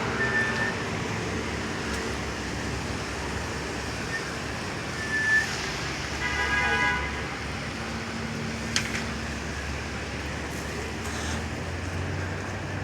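Steady city street traffic noise, with a car horn sounding once for about a second, about six seconds in, and a sharp click near nine seconds.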